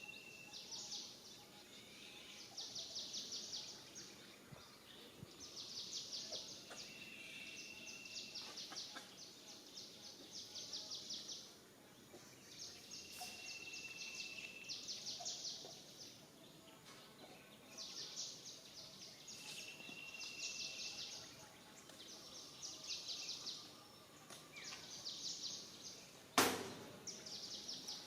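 Outdoor ambience of high chirping trills: each trill is a rapid run of pulses lasting about a second, repeating every two seconds or so. A few short, steady whistled notes are mixed in, and a single sharp click comes near the end.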